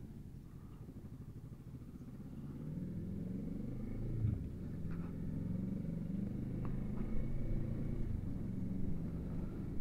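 Kawasaki Z650's parallel-twin engine pulling away at low speed. Its note rises from about two and a half seconds in, drops briefly just after four seconds, then climbs again.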